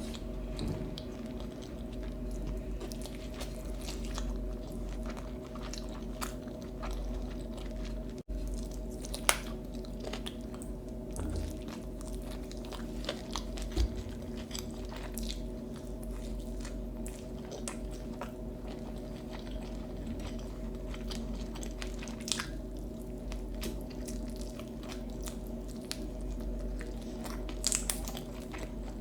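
A person chewing and biting food with the mouth close to the microphone: wet chewing with crunchy bites and a few sharper clicks, over a steady low hum.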